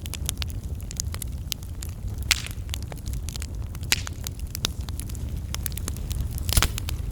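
Wood fire crackling: a steady run of sharp snaps and pops over a low rumble, with a louder pop near the end.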